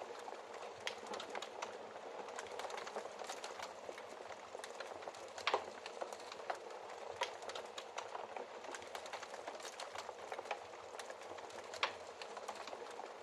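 Wood fire crackling in a fireplace: a steady soft hiss full of small irregular crackles, with a few sharper pops, the loudest about halfway through.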